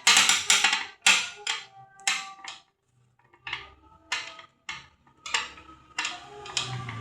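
Metal parts and tools knocking and clinking against one another, probably during the teardown of a scroll saw: some fifteen sharp knocks, several with a short metallic ring, and a brief pause about three seconds in.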